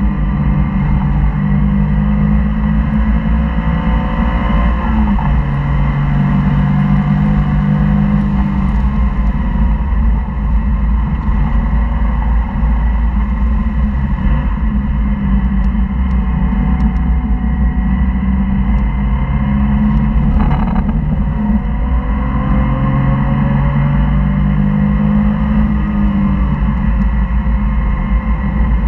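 Porsche flat-six engine under hard track driving, heard from inside the cabin: its note climbs and drops back repeatedly through gear changes.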